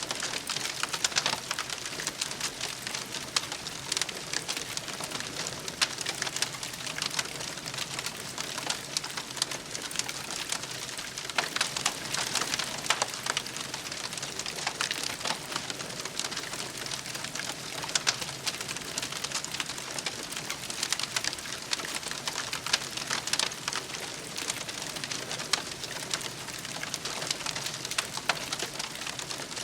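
Wood campfire crackling, with a steady hiss full of small irregular snaps and pops.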